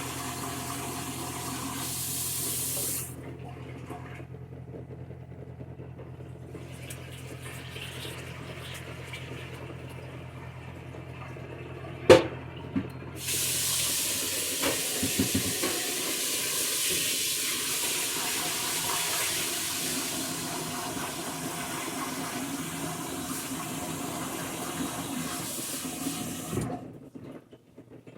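Water running from a kitchen tap, shut off about 3 seconds in and turned back on about 13 seconds in, running until near the end. A sharp knock just before it comes back on, and a steady low hum that stops soon after.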